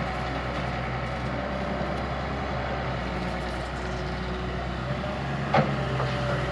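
Diesel engine of a heavy earthmoving machine running steadily under work, with one short, sharp knock about five and a half seconds in.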